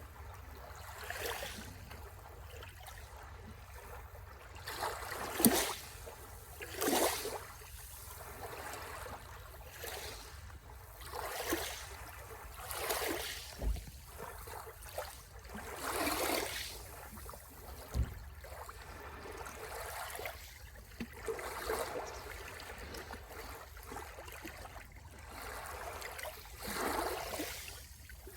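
Small waves washing onto the shore, a surge swelling and falling back every two to three seconds. The loudest moment is a sharp crack about five seconds in.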